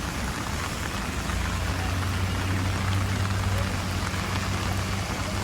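Steady rain falling and splashing on the ground. A low, steady hum, like a vehicle engine, joins in about a second in and fades near the end.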